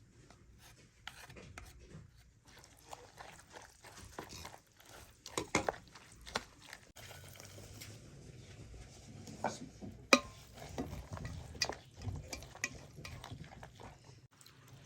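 Kitchen handling sounds: stirring and scraping with utensils against pots and dishes, with scattered clinks and a sharp knock about ten seconds in.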